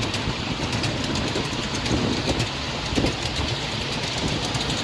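Train running behind a steam locomotive, heard from on board: a steady low rumble with a continuous rapid rattle of clicks from the cars and track.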